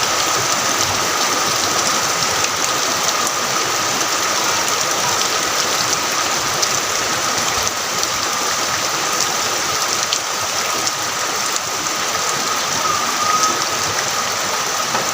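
Heavy rain falling steadily, a dense, even patter, with a faint steady high tone running underneath.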